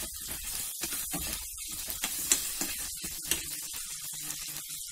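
Chopped potato, onion and tomato frying in coconut oil in a pan, sizzling steadily, with a few short clicks and scrapes from a metal spoon stirring.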